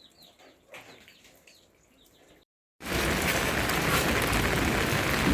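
Faint chirps. After a short dead gap about two and a half seconds in, heavy rain starts suddenly and falls steadily on a surface.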